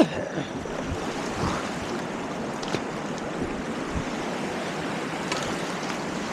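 River water rushing steadily through whitewater rapids.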